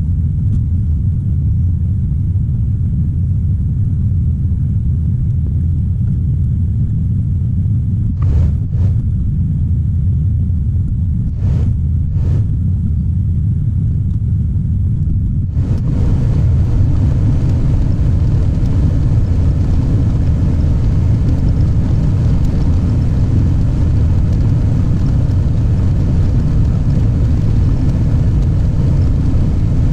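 Heavy diesel engine of a tracked construction machine running under load, a deep steady rumble with a few light knocks in the middle; about halfway through it gets louder and harsher, as when the throttle is opened up.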